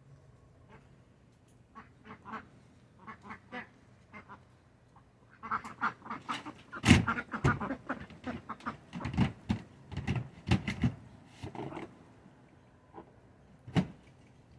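Domestic ducks quacking in a scatter of short calls. The calls are sparse at first, grow busy and loud from about five seconds in, and thin out near the end.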